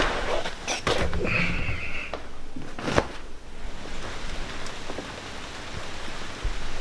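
Rain falling in large drops, with a few sharp knocks and clicks; the loudest knock comes about three seconds in.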